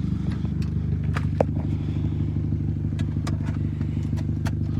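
A vehicle engine idling steadily, with scattered light clicks and knocks over it.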